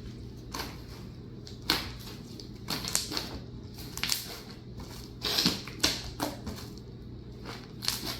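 Cloud slime with wet instant snow powder being mixed in, giving irregular sticky clicks and pops as it is worked.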